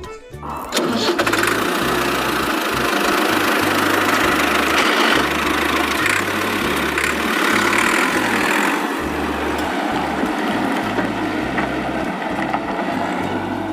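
Tractor engine running steadily, coming in about a second in, over background music with a steady bass line.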